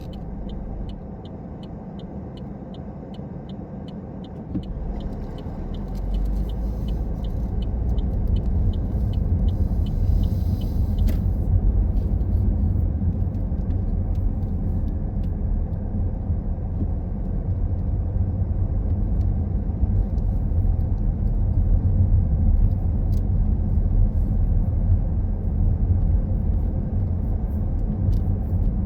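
Car driving with a turn-signal indicator ticking about three times a second. Engine and road rumble grow louder about five seconds in as the car moves off. The ticking stops about eleven seconds in, leaving a steady road rumble.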